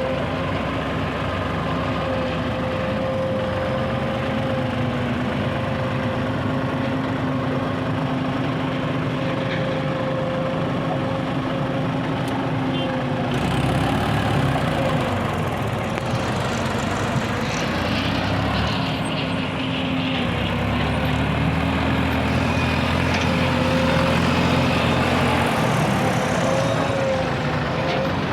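Diesel engines of a JCB loader and tractor running steadily as the loader works at loading mud. The engine note shifts and grows a little louder about halfway through.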